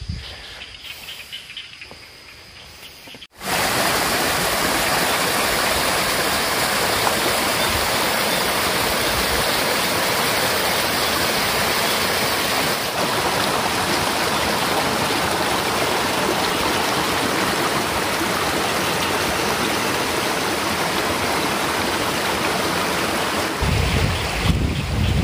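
Faint insect chirping, then after a sudden cut a few seconds in, a loud, steady rush of flowing stream water that continues unbroken.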